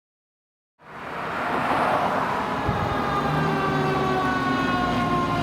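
Fire engine siren starting up suddenly about a second in, then sounding with its pitch sliding slowly downward, over the low rumble of the truck.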